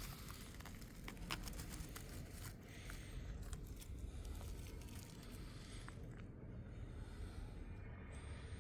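Rustling and crackling close to the microphone, with scattered sharp clicks, busiest in the first six seconds and quieter after.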